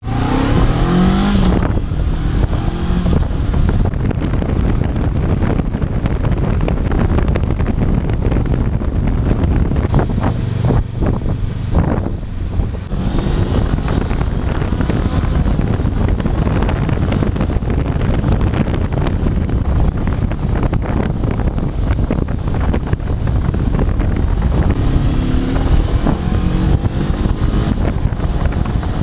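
Honda CB500X parallel-twin engine running under way, buried in heavy wind buffeting on the microphone. The engine note rises as the bike accelerates near the start and again near the end.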